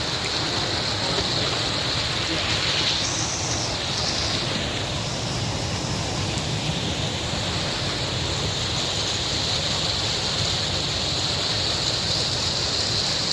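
Rushing water of a mountain waterfall and stream, a loud, steady, unbroken rush.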